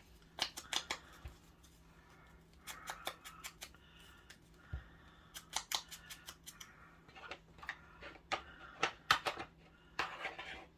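Paper edges being scraped to distress them: runs of quick, sharp rasping strokes with short pauses between.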